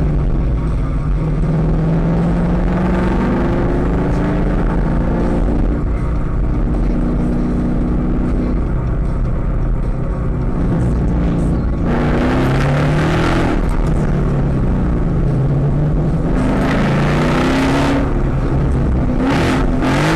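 Car engine revving up and dropping back again and again, as in low-speed driving through the gears. Three louder bursts of engine and exhaust noise come about twelve, seventeen and nineteen seconds in.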